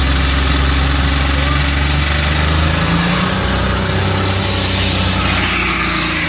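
Diesel engine running loud and steady, its low note shifting slightly about three seconds in.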